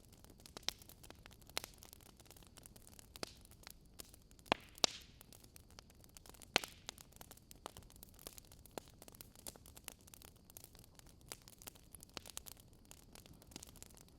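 Wood fire crackling: irregular sharp pops and snaps, a few louder ones about four and a half to five seconds in and again near six and a half seconds, over a faint steady low background noise.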